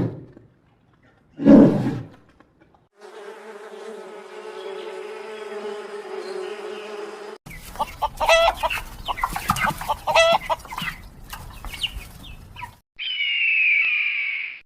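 A string of separate animal sound clips with abrupt cuts: a short low call, then a steady buzzing of about four seconds, then several seconds of choppy chicken calls, and near the end a high, falling call.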